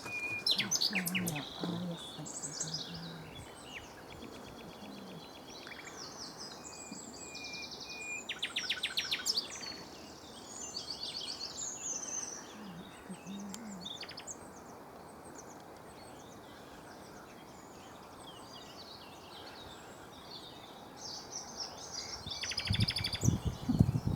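Common nightingale singing in separate phrases with pauses between them, including bursts of rapid repeated notes. A loud low rumble comes in near the end.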